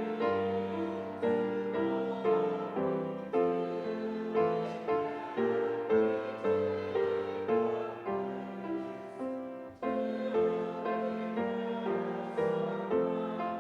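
Piano playing slow, sustained chords, one struck about every half second to second, in a hymn-like progression.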